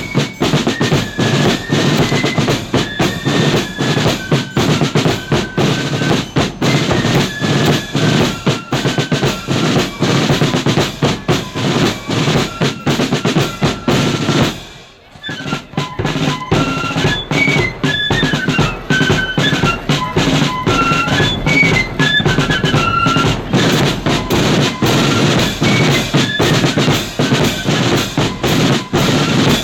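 A marching flute band playing a tune, with high flute melody over snare drums and a bass drum. The music breaks off for about a second halfway through, then the flutes and drums carry on.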